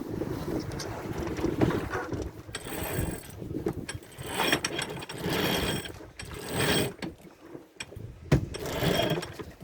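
Sailboat deck gear being worked while getting under way off anchor: about five short mechanical bursts, each under a second, over a steady low rumble of wind and water.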